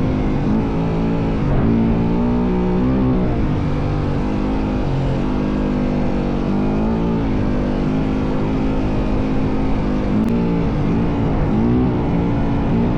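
Yamaha WR450F single-cylinder four-stroke dirt bike engine being ridden, its pitch rising and falling again and again as the throttle is opened and closed.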